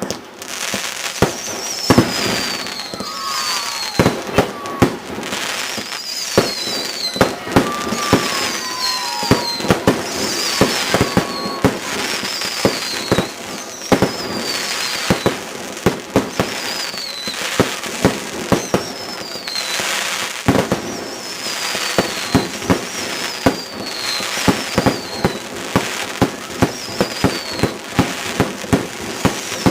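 Fireworks display: a rapid string of sharp bangs and cracks, with high whistles falling in pitch that recur every second or two.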